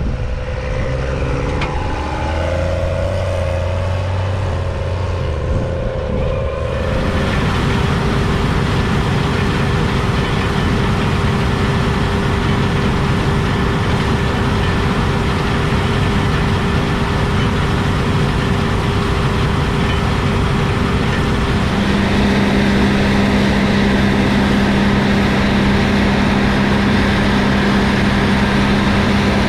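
New Holland CR 8.90 combine harvester running while harvesting, its FPT Cursor 16 six-cylinder diesel and threshing machinery making a steady mechanical drone. About seven seconds in the sound changes to this drone, and a deeper hum joins it in the last third.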